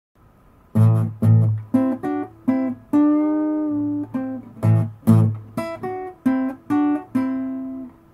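Acoustic guitar music: single plucked notes picked one after another over deep bass notes, starting just under a second in, with one note left ringing for about a second in the middle.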